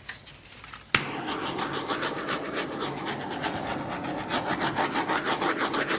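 A butane torch clicks alight about a second in and then hisses steadily with a fluttering flame as it is passed over wet acrylic pour paint to pop the surface bubbles.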